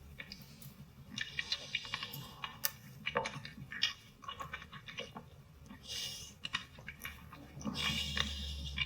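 Wet sucking and slurping mouth sounds of oral sex from an adult video: irregular smacks and clicks at an uneven pace.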